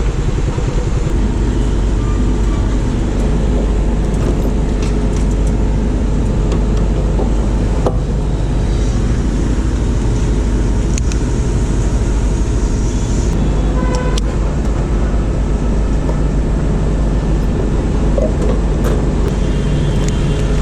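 Steady road and traffic noise from a motorcycle ride: engine and road rumble, with a few faint clicks.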